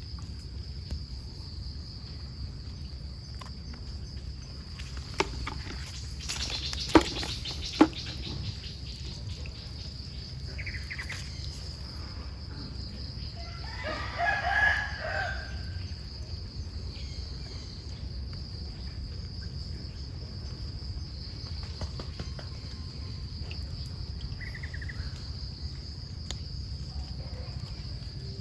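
A rooster crows once, about halfway through, over a steady high-pitched insect drone. A few sharp knocks come earlier, around a quarter of the way in, and are the loudest sounds.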